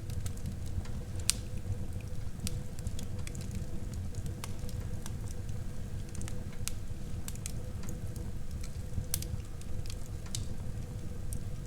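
Wood fire burning in a fireplace: frequent sharp crackles and pops over the steady low rumble of the flames, with one louder pop about a second in.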